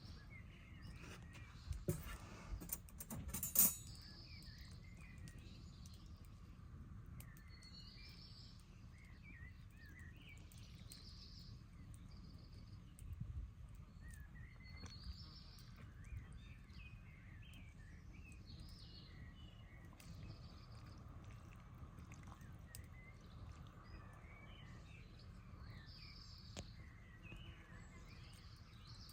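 Birds chirping, with short calls coming again and again throughout, faint over a steady low rumble. A few sharp clicks or knocks come between about two and four seconds in, the loudest near three and a half seconds.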